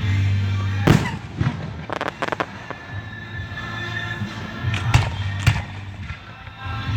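Fireworks shells bursting overhead in sharp bangs: one about a second in, a quick crackling run around two seconds, and two more around five seconds.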